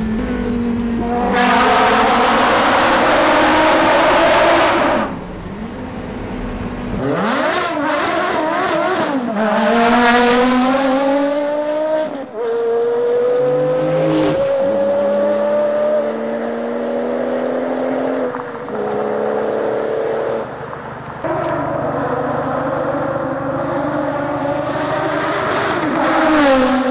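Porsche Carrera GT's V10 engine running hard, its pitch sweeping up and down through several gear changes, with a long stretch of steadily climbing revs in the middle.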